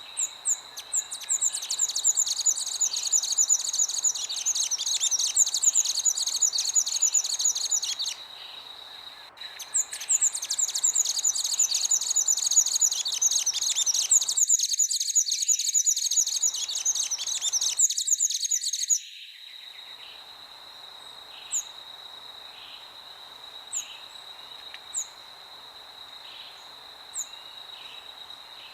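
Songbirds twittering in fast, dense chirps for two long stretches, broken by a short pause, over a steady high-pitched insect drone. In the last third only scattered single chirps remain over the drone.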